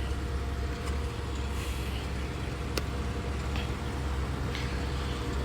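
Steady low mechanical rumble with a faint even hum, and a single sharp click about three seconds in.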